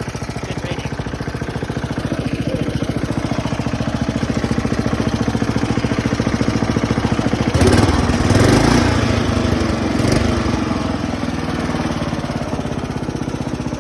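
Lawn tractor's small engine running steadily with an even, fast pulse, fitted with a Kohler carburetor and still running a little rich. Just past halfway it gets louder and rougher for about a second and a half, with another brief swell about a second later.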